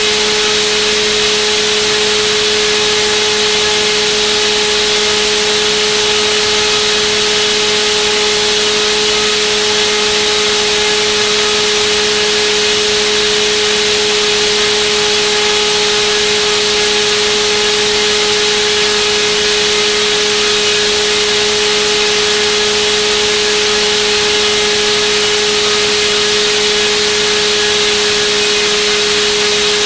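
Turnigy D2826/10 1400kV brushless outrunner motor spinning a model-aircraft propeller at a constant speed on a thrust test: a loud, steady whine over a hiss of propeller wash.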